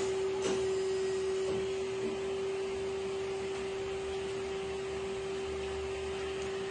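Tube end-closing spinning machine running with a steady, even hum over a haze of machine noise, and a few light clicks in the first two seconds.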